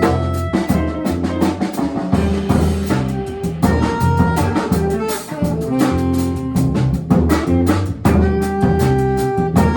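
A jazz quartet playing live: guitar notes over a low bass line, with the drum kit keeping a busy cymbal and drum pattern.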